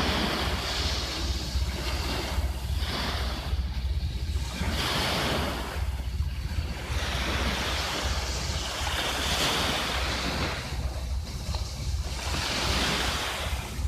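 Sea waves washing onto a beach, swelling and falling every couple of seconds, with wind rumbling on the microphone.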